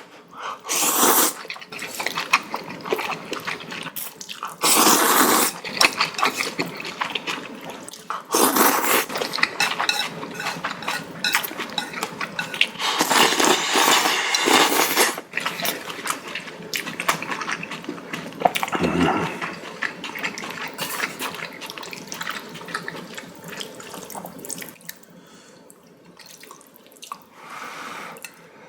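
Noodles being slurped loudly from a bowl of hot soup in several long pulls, with wet chewing and small clicks between the slurps.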